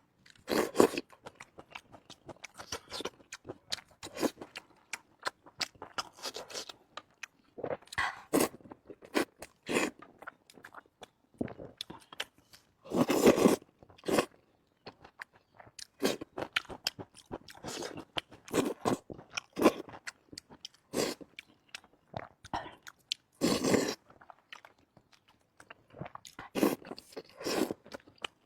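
Close-miked eating: a person biting and chewing food with irregular crunching and smacking. A longer, louder crunch comes about halfway through and another about four-fifths through.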